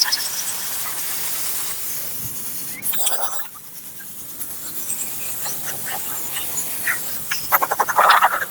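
Electric steam cleaner's spray gun blasting wet steam onto a car engine: a steady hiss that eases off for about a second partway through, then comes back with a crackling, spitting sputter near the end.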